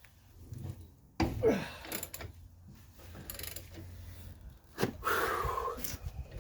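Metal knocks and clanks of tools being worked against a seized sway bar end link shaft stuck in a lower control arm bushing. They come with a man's strained grunts and breaths of effort, the loudest about a second in and again near the end.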